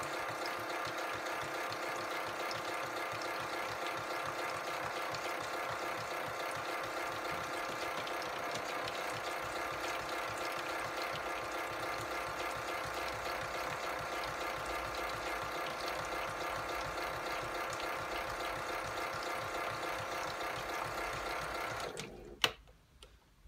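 Motor of a Europlay Tide Juniors Home toy washing machine running steadily with a whirring hum as it agitates the washload on the rinse. It stops about 22 seconds in with a click.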